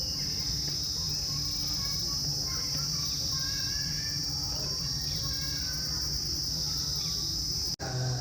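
A chorus of insects, crickets or cicadas, keeps up a steady high-pitched trill, with a few faint short calls behind it. The sound cuts out for a moment near the end.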